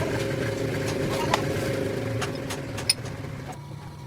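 A motor or engine running steadily with a low hum, with a couple of sharp clicks; the hum dies away about three and a half seconds in.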